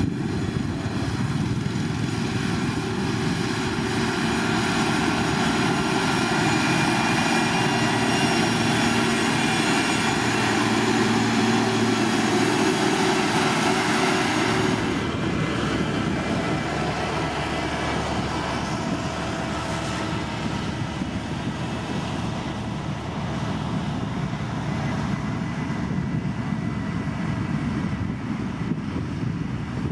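Heavy road-construction machinery running, a steady engine drone with a whine over it. About halfway through, the high-pitched part cuts off abruptly and a lower drone carries on.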